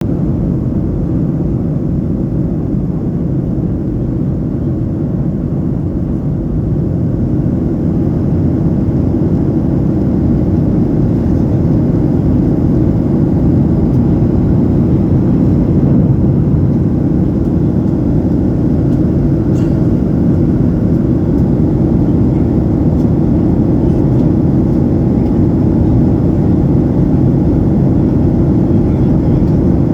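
Airplane cabin noise in flight: a steady, loud low rumble of the engines and rushing air.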